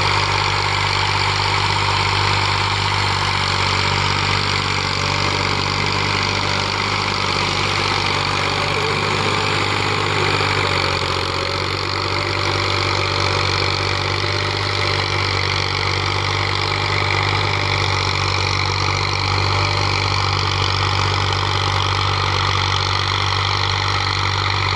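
Massey Ferguson tractor's diesel engine running steadily, with a slight dip about eleven seconds in.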